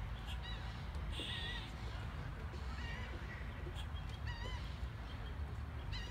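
Birds calling in the trees: short arched chirps every second or so, with one harsh squawk about a second in, over a steady low rumble.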